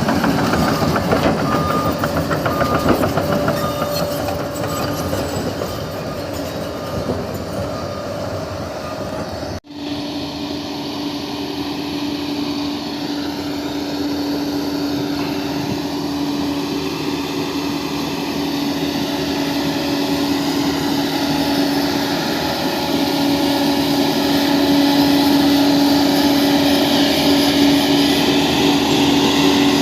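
Bulldozer's diesel engine running under load, with the clank and rattle of its steel tracks. After a cut about ten seconds in, a steady whine rides over the engine.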